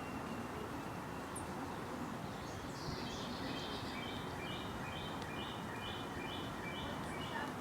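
A bird calling a run of about eight short, evenly repeated high notes, about two a second, starting a few seconds in, over a steady background hiss of yard ambience.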